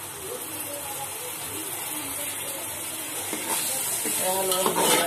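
Chopped tomatoes frying in hot oil with onions in a steel pot, sizzling while a steel spoon stirs and scrapes them. The sizzle and scraping grow louder about three and a half seconds in.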